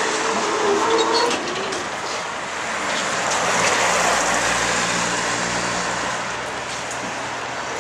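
Tram running on its rails with a steady rumble of wheel and rail noise and a few light clicks. A low steady hum comes in about three and a half seconds in and fades out about three seconds later.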